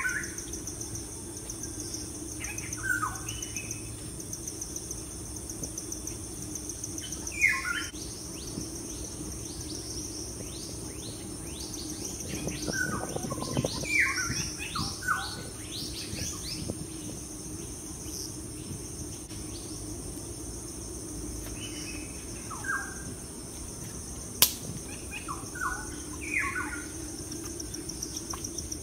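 Birds calling in short, falling chirps that come in scattered groups, busiest around the middle, over a steady high-pitched insect drone and a low hum. One sharp click late on.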